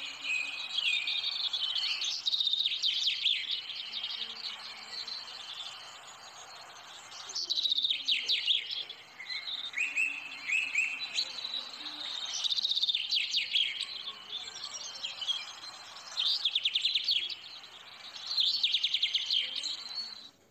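Small birds chirping and singing, with a phrase of rapid high chirps and trills every few seconds over a faint steady hiss.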